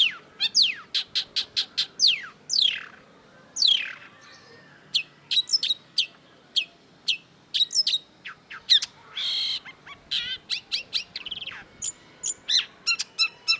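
Long-tailed shrike singing a fast, varied song of sharp ticks and chips, quick downward-sweeping whistles and short trills, with a brief harsh rasp about nine seconds in.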